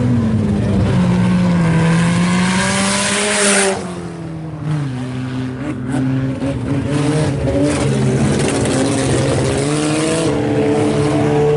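Several IMCA Sport Compact race cars' four-cylinder engines running together on a dirt oval, their pitch wandering up and down. The engines are loudest in the first few seconds, drop back about four seconds in, then build up again.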